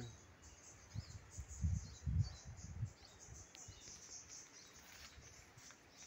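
Faint outdoor ambience of small birds chirping, with a few low dull thumps about one to three seconds in.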